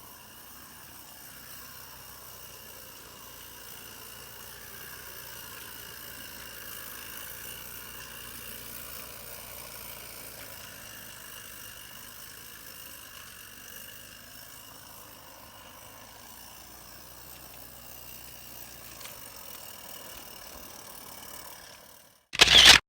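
Steady running noise of a train on a mountain railway. Near the end, a short, very loud burst breaks in and the sound cuts off abruptly.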